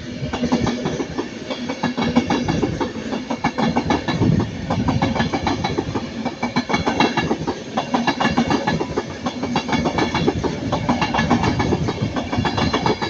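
An Avanti West Coast Class 390 Pendolino electric train passing, its wheels clattering rapidly over rail joints above a steady rumble.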